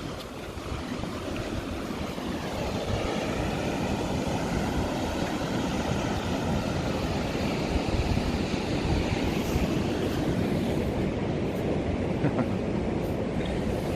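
Atlantic surf breaking and washing on a beach, with wind rumbling on the microphone: a steady rushing noise that grows slowly louder over the first few seconds.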